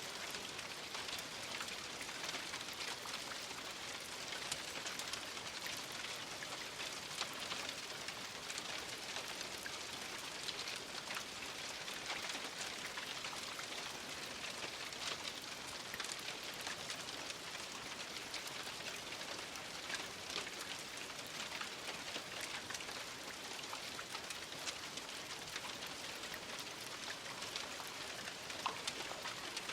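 Steady rain falling, a dense even patter dotted with sharp individual drop ticks.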